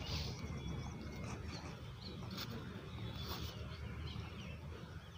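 Faint bird chirps scattered over a steady low background rumble, with a few brief soft noisy rasps.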